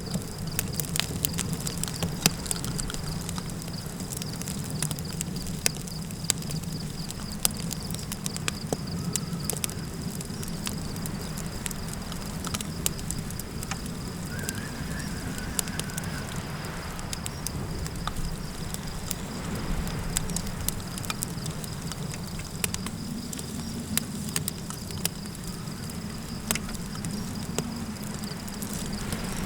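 Campfire crackling with frequent sharp pops and snaps over a low, steady rumble of wind, with a steady high insect drone throughout. A faint wavering high call rises and falls a little before the middle.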